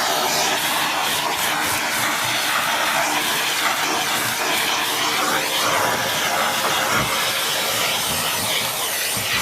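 Miele S8730 (C3 Complete) cylinder vacuum cleaner running steadily on minimum power with its dusting brush fitted. The rush of air through the brush changes a little as it is moved over the surface.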